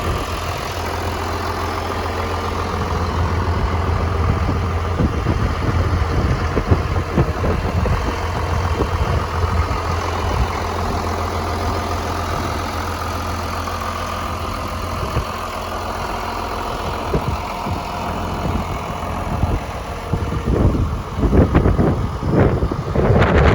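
Farmall/IH 966 tractor engine idling steadily. Wind buffets the microphone in gusts in the last few seconds.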